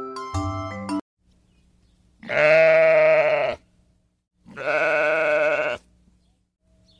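A goat bleating twice: two long, wavering bleats about a second apart.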